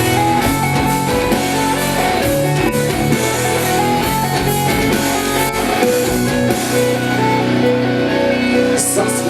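Live rock band playing the song's instrumental intro, with guitar to the fore over a steady beat, before the vocals come in.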